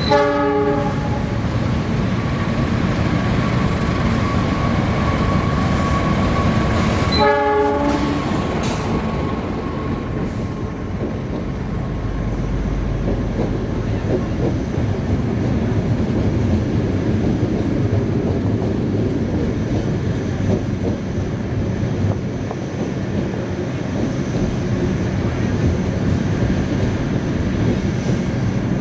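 Diesel locomotive horn sounding two short blasts, one right at the start and another about seven seconds in, as a passenger train pulls slowly into the station. Then the steady running noise and light clatter of the locomotive and its coaches rolling past on the rails.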